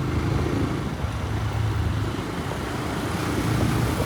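TVS Raider 125's single-cylinder engine running steadily under way, a continuous low rumble that wavers slightly in loudness.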